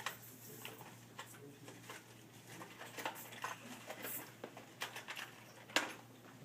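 Scattered light clicks and knocks of hard objects being handled, with the sharpest knock a little before the end.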